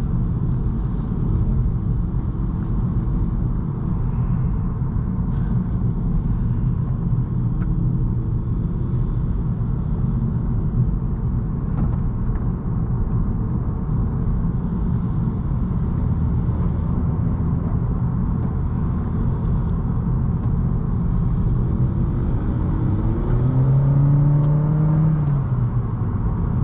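A 2018 Honda Accord 1.5T's turbocharged four-cylinder engine and tyres giving a steady low rumble while driving slowly on a winding road. Near the end an engine note rises in pitch and gets a little louder as the car speeds up.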